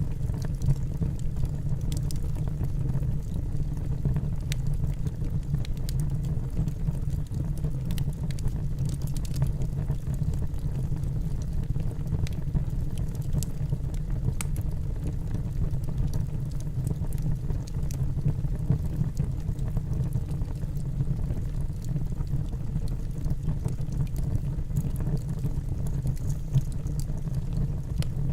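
Wood fire burning in a fireplace: a steady low rumble of the flames with frequent small, sharp crackles and snaps from the burning logs at irregular moments.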